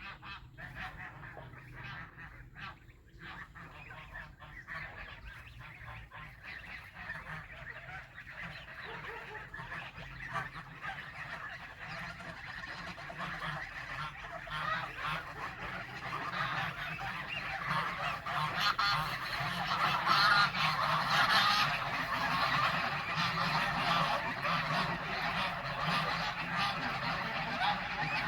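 A flock of domestic geese honking together in a dense, overlapping chorus that builds steadily louder, loudest about twenty seconds in.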